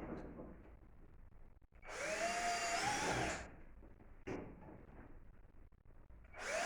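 Electric drill-driver running in short bursts while driving screws through a plexiglass sheet into a table top. Its motor whine rises and then falls, once about two seconds in and again near the end, with a single click between the bursts.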